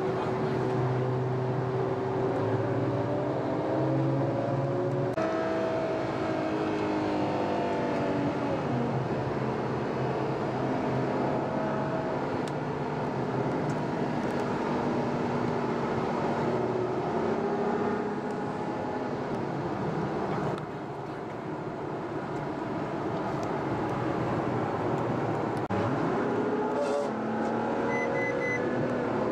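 Ferrari FF's V12 engine heard from on board while driving, its note rising and falling with throttle and gear changes.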